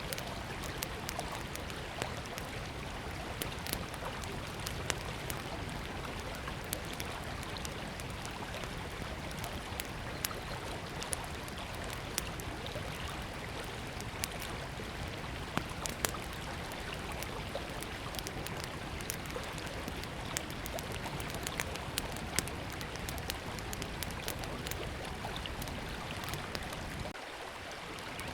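Small wood fire crackling, with frequent sharp snaps and pops, over the steady rush of a flowing river.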